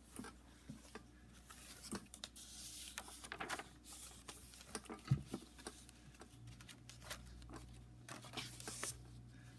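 Pages of a handmade paper junk journal rustling as they are handled and turned, with scattered light taps and clicks and one sharper knock about five seconds in.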